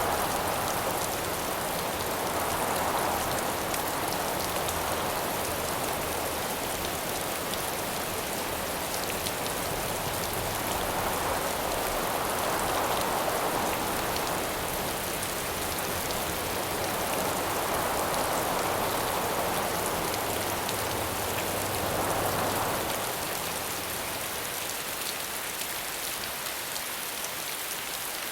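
Steady rain falling, with wind that swells and dies away in gusts every few seconds. About three-quarters of the way through, a low rumble under the rain fades out and the sound gets slightly quieter.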